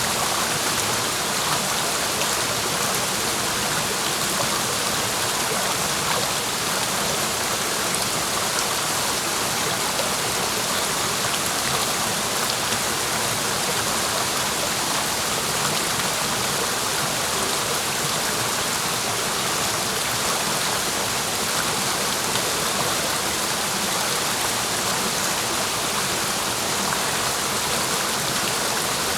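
A clear mountain stream rushing over rocks in a steady, even wash of water sound.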